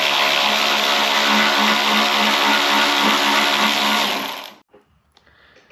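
Aerosol can of spray lubricant spraying in one long steady hiss, cutting off about four and a half seconds in.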